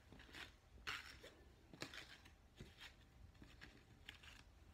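Faint rustles and soft taps of paper picture cards being handled and moved, several short ones spread through a near-silent room.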